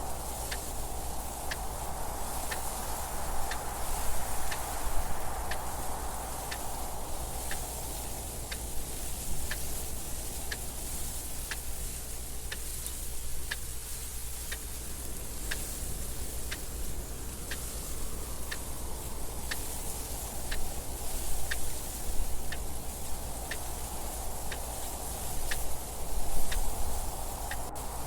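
A clock ticking at an even, steady pace over a wind noise that swells, dies down around the middle, and builds back up.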